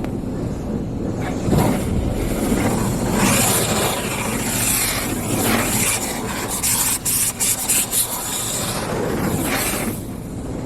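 Tunnel car wash spraying water and scrubbing on the car's body, heard from inside the car, with a loud hiss from about three to nine seconds in.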